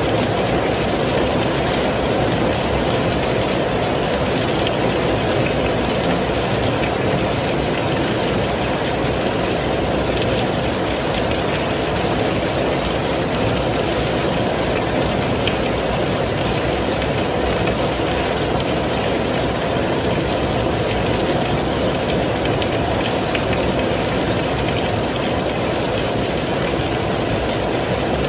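Heavy rain falling steadily as an even, unbroken rushing hiss, with a few faint drips or ticks standing out.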